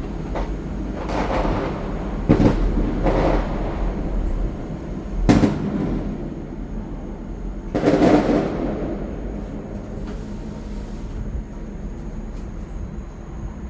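Fireworks going off, heard from inside a moving gondola cabin: about six sudden bangs with echoing tails over the first nine seconds, the loudest about five seconds in. A steady low rumble from the cabin runs underneath.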